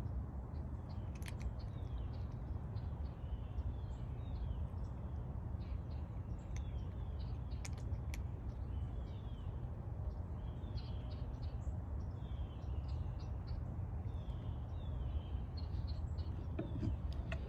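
Small birds chirping repeatedly over a steady low background rumble, with a few sharp ticks.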